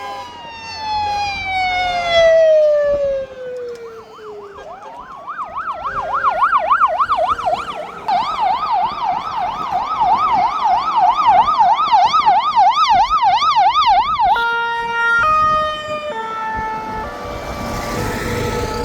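Fire engine sirens sounding together: one tone falls slowly in pitch, then a fast rising-and-falling yelp takes over. About fourteen seconds in, it switches to a two-tone siren stepping between fixed notes.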